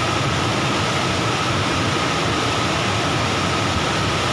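Steady rush of falling water from a waterfall: an even, unbroken wash of noise, with a steady high whine running through it.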